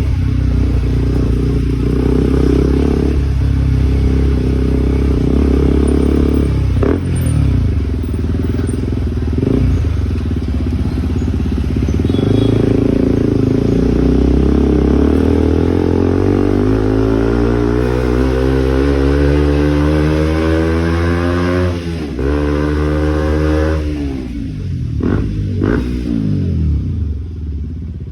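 KTM RC 200's single-cylinder engine through an aftermarket exhaust, running steadily at first, then rising in pitch over several seconds as it is revved. The pitch breaks off sharply about 22 seconds in, climbs again briefly, then falls away.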